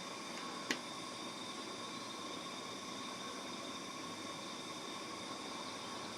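Steady background hiss with a faint high whine, and one sharp metallic click under a second in as a small circuit-breaker part is handled.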